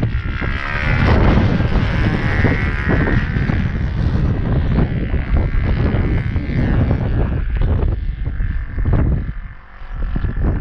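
Heavy wind buffeting the microphone over the engine of an RC Carbon Cub model plane, a Saito FG-21 four-stroke gas engine, whose pitch rises and falls in the first few seconds and then fades under the wind.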